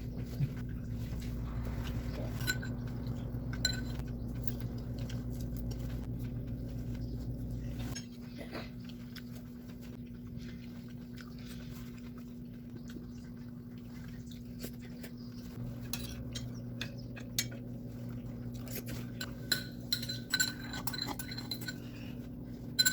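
Dishes and cutlery clinking: scattered sharp clinks, some with a short ring, coming more often near the end, over a steady low hum.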